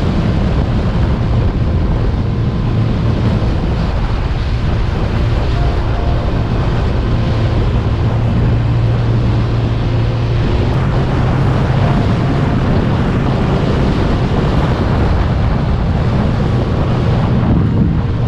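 Yamaha YZF-R1's inline-four engine running at a steady pace while riding, its pitch rising slightly about halfway through. Heavy wind noise buffets the microphone over it.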